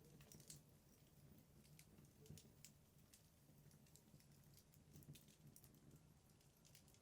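Wood burning in a fireplace, crackling faintly with irregular small snaps and pops over a low steady rumble.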